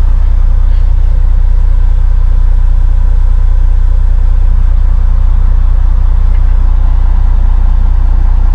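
Army truck being driven, heard from inside the cab: a steady low engine drone and road rumble that does not change.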